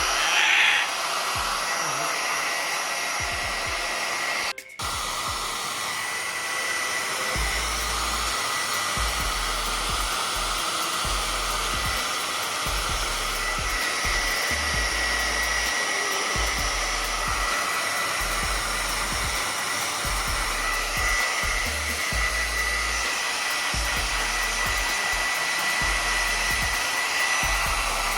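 Handheld hair dryer running steadily: an even rush of blown air with a thin high whine. It cuts out for a split second about four and a half seconds in.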